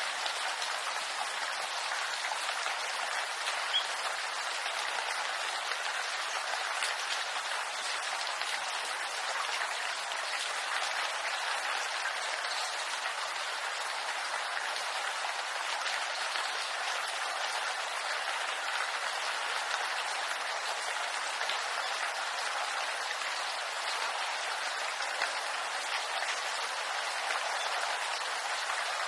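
Steady rain falling on bamboo leaves, an even hiss of many drops with an occasional louder single drip.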